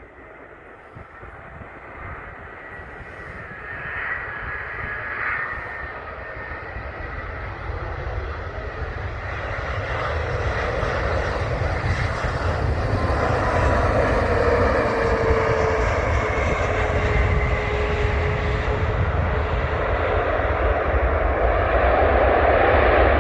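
Airbus A350-1000 airliner's Rolls-Royce Trent XWB turbofan engines on landing approach, the jet noise growing steadily louder as the aircraft nears. A whine runs through the noise and drops slightly in pitch during the second half.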